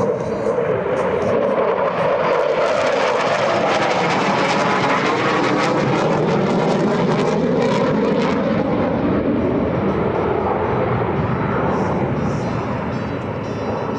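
F-35C Lightning II's F135 turbofan jet engine roaring past in a loud flyby. The pitch of its tone drops over several seconds as it goes by, then the roar slowly fades.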